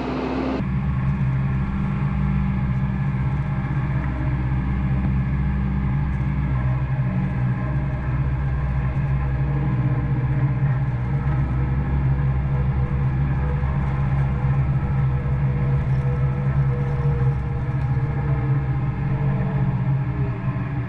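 Isuzu NPS 4x4 truck's four-cylinder turbo-diesel engine running steadily under load as the truck crawls in a low gear over sand.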